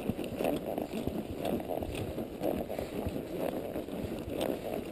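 Palomino quarter horse walking along a trail, an irregular run of soft hoof falls.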